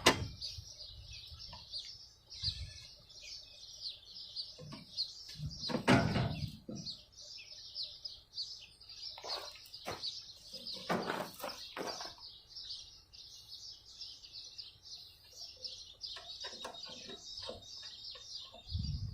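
Birds chirping steadily in the background, with a handful of knocks and clatters from the push mower's handle and parts being worked on during assembly. The loudest knocks come right at the start and about six seconds in.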